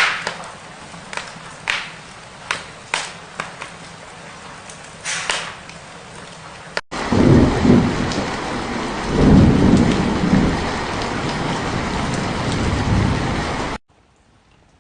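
Steady rain with scattered sharp clicks for about seven seconds, then a cut to heavier rain with two rolls of thunder. The sound stops abruptly about a second before the end.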